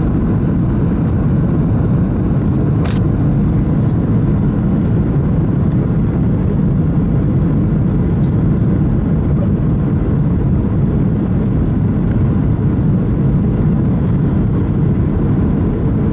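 Steady, loud cabin noise of a Boeing 737-600 airliner: a constant low rumble of engines and airflow heard from a passenger seat, with one short click about three seconds in.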